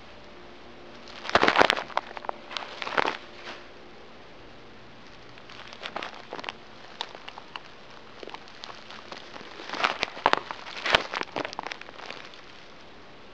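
Several short bursts of crackly rustling and scratching clicks, typical of an injured bird's wings and claws scrabbling and fluttering against a surface it is perched or set down on.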